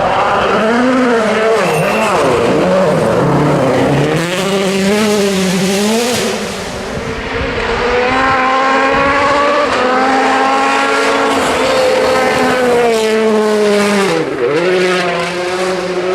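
A 2017-spec World Rally Car's turbocharged four-cylinder engine driven hard on a rally stage. The engine note rises and falls over and over as it goes through gear changes and lifts, holds a high pitch for several seconds in the middle, then drops sharply and picks up again near the end.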